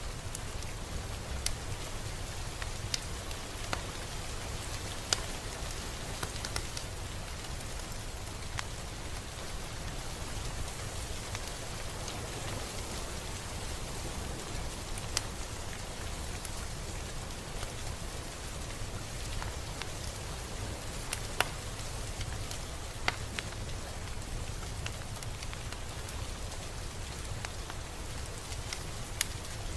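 Steady rain falling, an even hiss with a low rumble underneath and scattered sharper drop hits every second or two.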